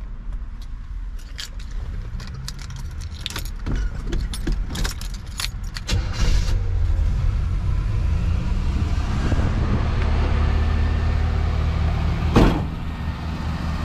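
1984 Chevrolet El Camino's engine idling steadily, getting louder about halfway through. Keys jangle and click over the first few seconds, and there is one loud thump near the end.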